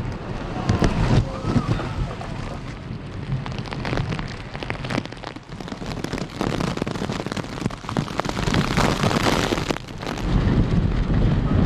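Heavy typhoon rain and strong gusting wind, with the gusts buffeting the microphone in surges.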